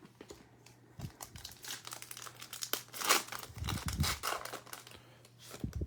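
Foil trading-card pack wrapper being torn open and crinkled, a run of crackles lasting a few seconds, with a few dull low knocks among them.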